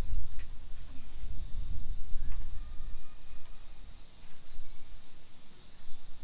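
Outdoor park ambience: a steady high insect drone, with wind gusting on the microphone and a few thin bird notes around two to three seconds in.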